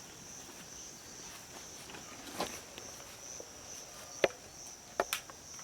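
Steady high-pitched insect chirring, typical of crickets, with a few sharp knocks or clicks in the second half, the loudest a little after four seconds.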